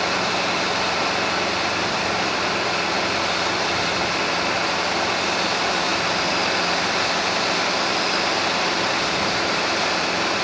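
Robinson R22 helicopter in cruise flight, heard inside the cabin: a steady, even rush of engine, rotor and airflow noise with faint steady tones running through it.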